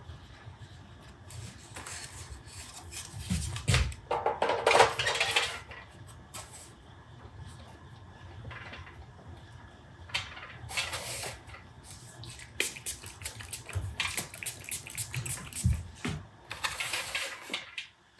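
Workshop handling sounds of hard pieces, wood and metal, being set down and worked: scattered clinks and knocks, a quick run of clicks, and several short scraping bursts.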